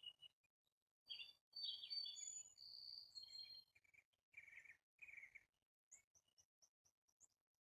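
A songbird singing: a varied phrase of clear whistled and warbled notes, then a quick run of short, high chips near the end.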